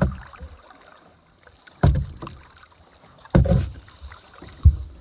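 Kayak being paddled, with four heavy low thuds spaced about a second and a half apart over faint water noise.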